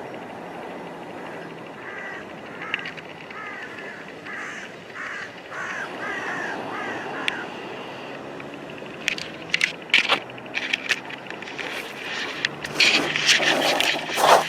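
A bird gives a run of short harsh calls, about two a second, for around five seconds over a steady background hiss. Later, sharp crunching and scraping noises start up and grow louder near the end.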